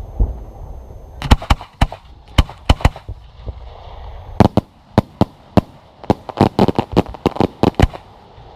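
Fireworks going off: rapid volleys of sharp bangs and cracks, a first cluster about a second in and a denser run from about halfway until near the end.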